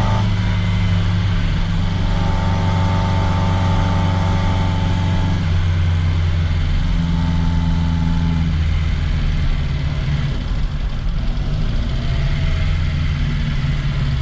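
1969 Reliant Regal three-wheeler's small four-cylinder engine running while driving, a steady hum whose pitch shifts in steps several times as the engine speed changes.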